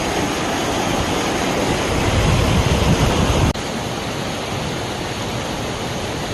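Rushing water of a rain-swollen creek or waterfall, a steady rush of noise. It changes abruptly about three and a half seconds in to a slightly quieter, thinner rush.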